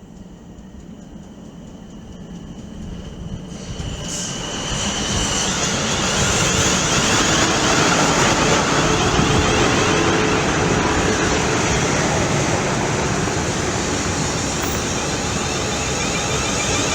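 A train approaching, growing steadily louder over the first five or six seconds, then passing close by with a loud, steady rush of wheels on rail.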